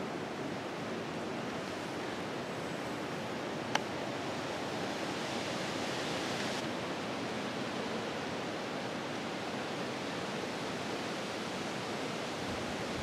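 Steady rushing noise of a tropical storm's wind and rain in the woods, with one sharp tick a little under four seconds in.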